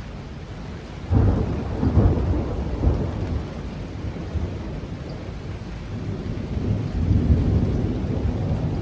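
Thunder during a heavy rainstorm: a loud rumbling crack breaks out about a second in and rolls on for a few seconds, swelling again near the end, over steady rain.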